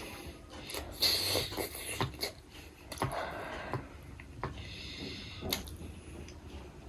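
Close-up eating sounds: irregular chewing, wet mouth clicks and brief scrapes, with short noisy bursts about a second in and again about three seconds in.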